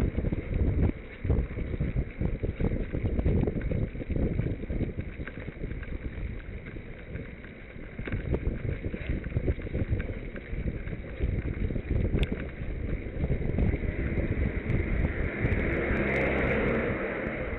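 Wind buffeting the microphone of a camera riding on a moving bicycle, in uneven low gusts over the rush of the ride. Near the end the gusts give way to a smoother, steadier rushing noise that fades away.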